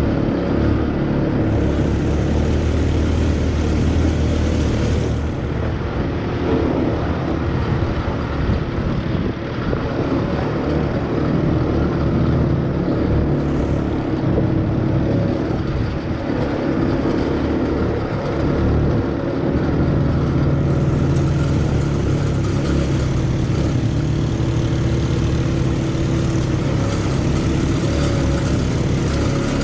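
ATV engine running steadily as it is ridden, its pitch rising and falling a little with the throttle.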